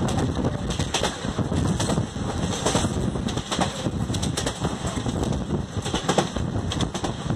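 Express train running at speed on Indian Railways track, heard from an open coach door: a steady rumble with irregular clicks and clatter of the wheels over the rail joints, and wind rushing past the door.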